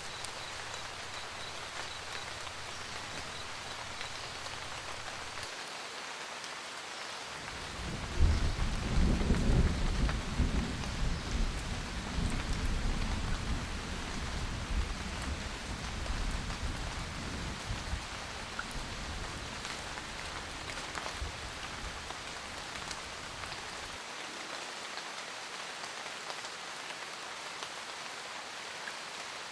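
Steady rain pattering, with a roll of thunder that breaks in about eight seconds in, rumbles loudest for a few seconds and slowly dies away over the next dozen or so.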